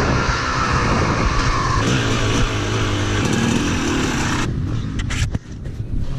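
Dirt bike engine running under riding, mixed with rushing wind and track noise. About four and a half seconds in, the sound drops suddenly and goes quieter.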